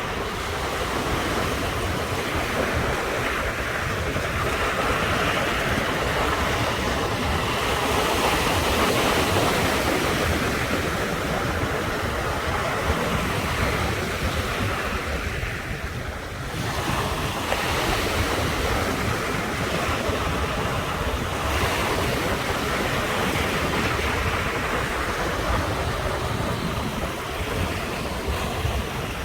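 Ocean surf washing onto the shore in a continuous rush, swelling and easing every few seconds, with a brief lull about sixteen seconds in before the next surge.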